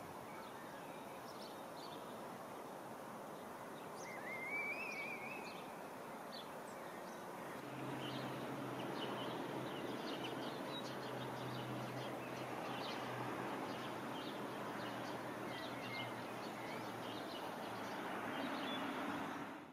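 Outdoor ambience with scattered bird chirps and calls over a steady background noise, including a short warbling call about four seconds in. From about eight seconds a low steady hum joins in.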